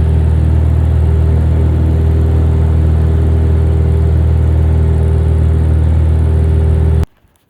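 Single-engine Cessna 172's piston engine and propeller, heard from inside the cabin, running at a steady, unchanging drone. It cuts off suddenly near the end.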